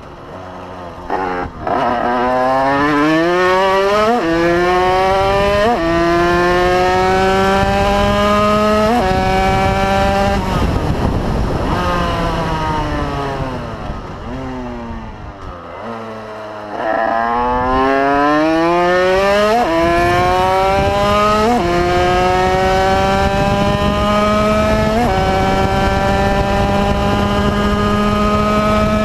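Derbi Senda two-stroke with an Airsal 80cc cylinder kit and Metrakit Prorace exhaust, ridden hard: the engine revs up through the gears with quick upshifts, drops to low revs about halfway through, then accelerates again through several more gears and holds high revs near the end.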